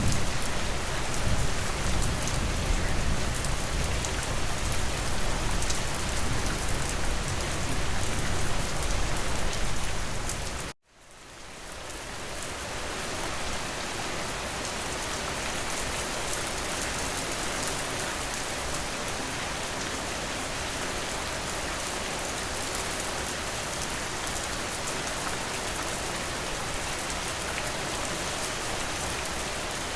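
Steady rain falling, heavier and with a deeper rumble for the first ten seconds or so. About eleven seconds in it cuts out abruptly, fades back in over a couple of seconds, then continues steady and slightly quieter.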